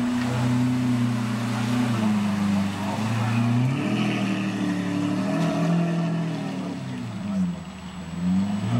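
Lamborghini Aventador LP700-4 Roadster's V12 engine running at low revs as the car moves off slowly. The engine note rises and falls gently with light throttle, dipping briefly near the end before picking up again.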